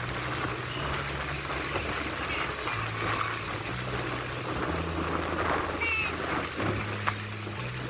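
Steady rushing water of a monsoon waterfall, with a low bass line of held notes that changes pitch about once a second underneath.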